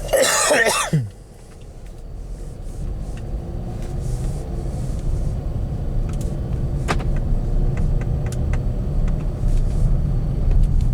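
2015 Ford Edge on the move: a low road and engine rumble that builds over the first few seconds and then holds steady, with a few light clicks.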